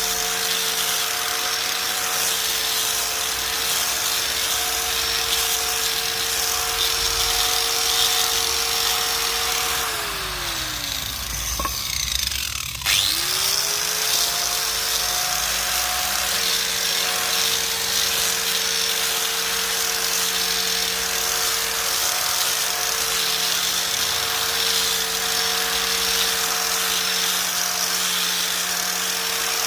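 Small motor of a homemade grass cutter running at a steady high whine. About ten seconds in it winds down over a couple of seconds, then starts again with a sharp click and quickly spins back up to speed.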